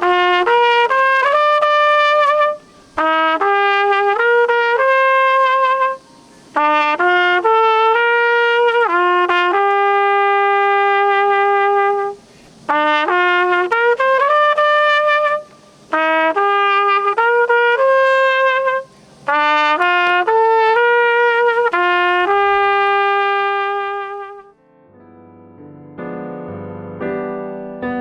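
Solo trumpet playing a slow melody of held notes in phrases, with short breaks between them. It stops a few seconds before the end, and a soft piano comes in.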